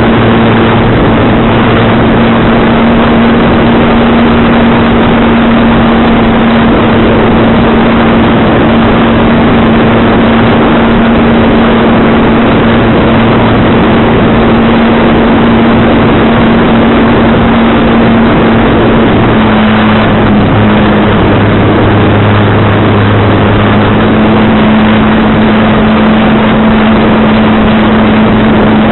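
Model airplane's motor running at a steady pitch under loud wind rush on the microphone, its tone shifting slightly about twenty seconds in.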